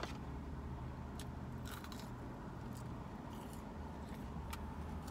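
Close-up mouth sounds of someone chewing McDonald's french fries: a handful of short, sharp clicks over a low steady hum.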